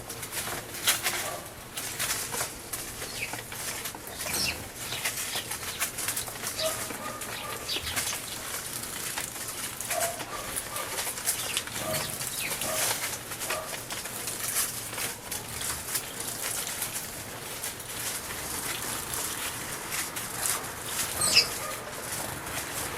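Eurasian tree sparrows bathing in a bird bath: repeated quick splashing and wing-fluttering in the water, with occasional short chirps.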